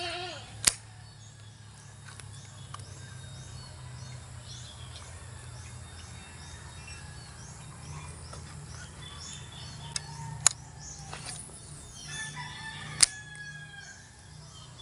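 Birds calling over a steady low hum, with three sharp clicks: one about a second in and two near the end.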